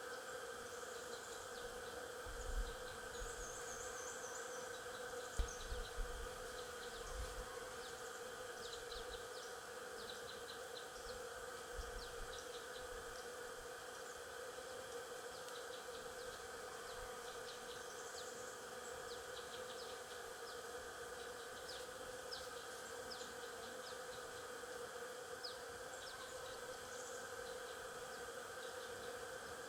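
Stingless bees buzzing in a steady hum, with many short, high chirps scattered through it. A few brief low thumps come in the first several seconds.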